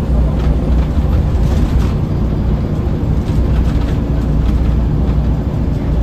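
Scania L94UB city bus running, heard from inside the cabin: a steady low engine hum with light rattles now and then.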